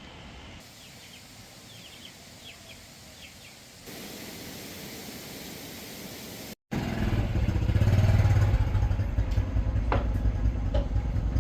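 A motor vehicle engine running steadily, loud and low-pitched, starting abruptly after a cut about two-thirds of the way through. Before it there is only a quiet background with a few faint short chirps.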